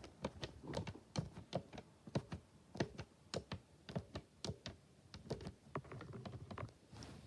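An irregular run of quick taps and clicks, about three to four a second, some with a dull low knock, much like typing on a keyboard.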